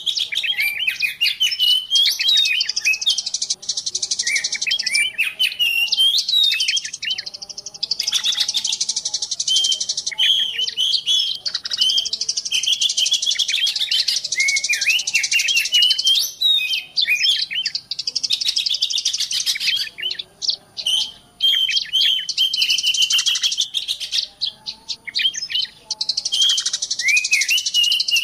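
Dense, continuous chirping and twittering of small songbirds, with many rapid high notes overlapping and only brief pauses. It is a lure call recording of the kind played to draw small wild birds in.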